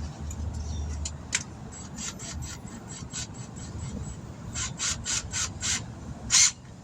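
A tire-repair reamer being worked in and out of a nail hole in the tire, a series of short scraping rasps. A few strokes are spaced apart at first, then comes a quick run of about five, with the loudest one just before it stops. The hole is being cleaned out so a patch plug can be pulled through it.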